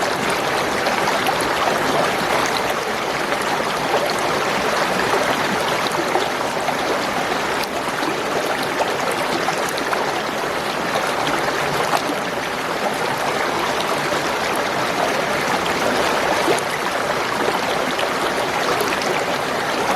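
Spring water gurgling and babbling over stones in a steady stream.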